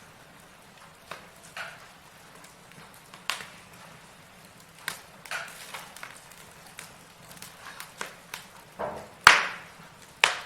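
Wood fire crackling in a fireplace: burning logs giving off irregular sharp pops and snaps over a faint steady hiss, with the loudest crack a little after nine seconds in and another near the end.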